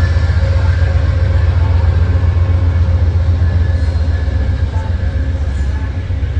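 Train passing with a loud, steady low rumble that carries faint steady tones, typical of a diesel locomotive working.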